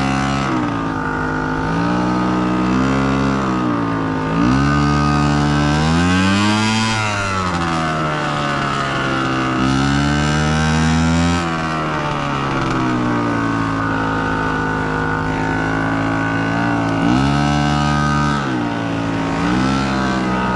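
Honda CRF150R dirt bike's single-cylinder four-stroke engine being ridden, revving up and dropping back again and again with the throttle. It climbs highest about seven seconds in, then runs steadier for a few seconds before revving again near the end.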